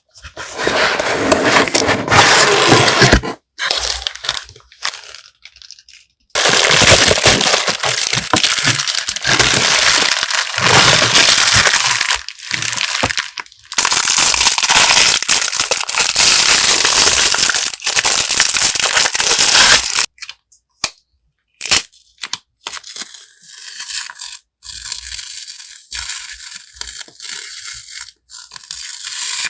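Packaging being opened and handled: long stretches of loud crinkling and rustling, then from about twenty seconds in quieter scattered crackles and taps.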